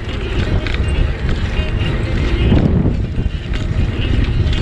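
Wind buffeting the microphone of a cyclist riding along, a steady low rumble that covers most other sound.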